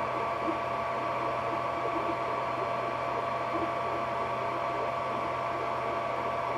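Ender 3D printer running mid-print: a steady mechanical hum with two constant high tones and a fluttering texture from its moving parts.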